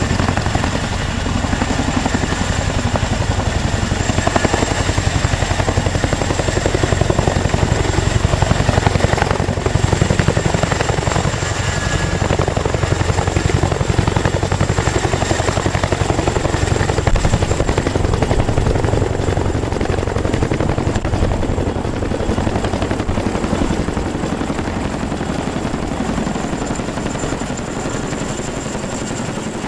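Helicopter running: a fast, steady rotor chop with a thin, steady high whine over it, easing a little near the end.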